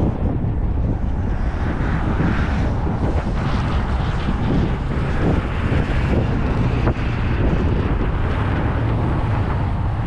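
Heavy wind buffeting the microphone, a steady low rumble.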